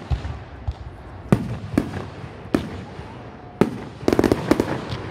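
Aerial firework shells bursting: single sharp bangs every second or so, then a quick run of several bangs near the end.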